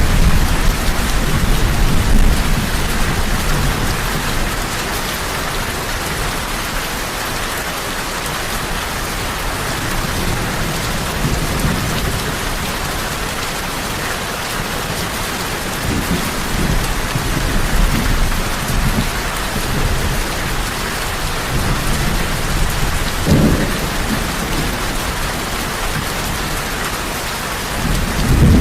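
Heavy rain falling steadily, with low rumbles of thunder swelling and fading several times, strongest at the start and again near the end.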